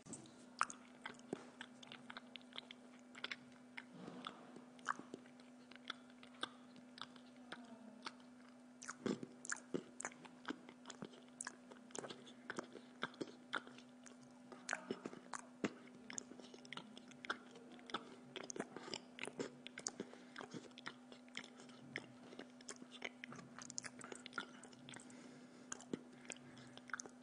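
A person chewing pizza close to the microphone, with many short mouth clicks and smacks and the light clink of a knife and fork on the plate. A steady low hum runs underneath.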